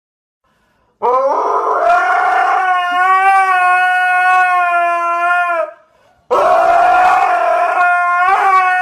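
An animal's long, drawn-out howling call, given twice: each rises at the start and is then held on one steady pitch, the first lasting about four and a half seconds, the second cut off at the end.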